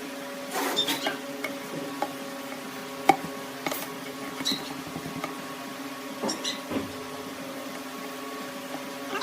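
Wood lathe running with a steady hum, with scattered light clicks and scrapes from work on the turning piece.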